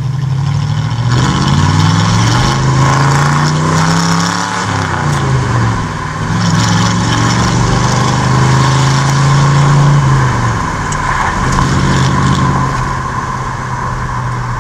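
Classic Chevrolet Impala's engine heard from inside the cabin while driving. Its pitch climbs for a few seconds, drops about four seconds in, rises again and holds steady, then falls back near ten seconds in as the car accelerates and eases off.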